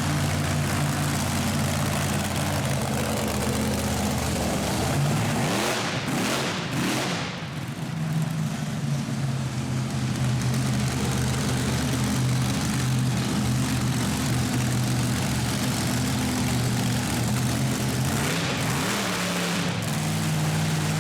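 Monster truck engine running steadily, its revs rising and falling about five seconds in and again near the end.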